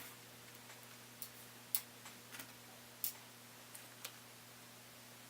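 Faint, scattered small clicks and taps of tools and tiny parts being handled in a laptop teardown, about six irregularly spaced ticks, over a faint steady hum.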